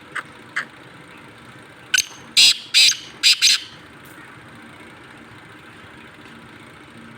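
Black francolin (black partridge) calling: two short notes, then about two seconds in a loud, harsh phrase of five quick notes. A steady low hum runs underneath.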